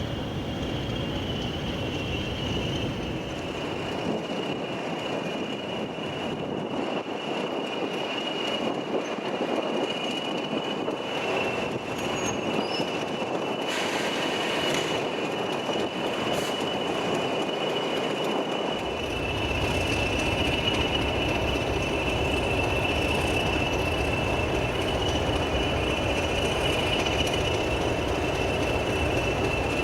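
A train's wheels squealing against the rails as it moves slowly, a steady high-pitched screech over the rumble of the train. A deeper rumble joins in about two thirds of the way through.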